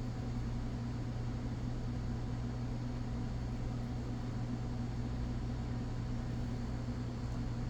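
Steady low electrical or mechanical hum with a light hiss, unchanging throughout.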